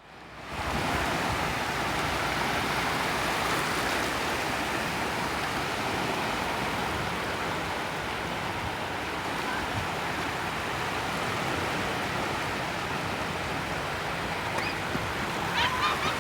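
Sea surf: a steady wash of breaking waves. A brief high-pitched voice calls out near the end.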